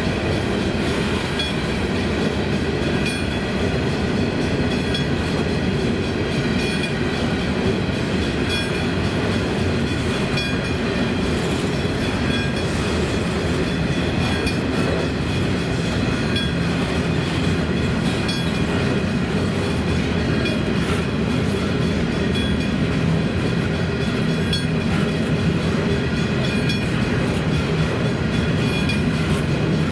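Freight train of coal hopper wagons rolling steadily past across a level crossing: a continuous rumble with wheels clattering over the rails.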